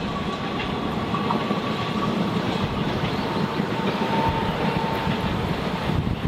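Express train running past on the track, a steady loud rumble of wheels on rails with a faint thin whine near the middle.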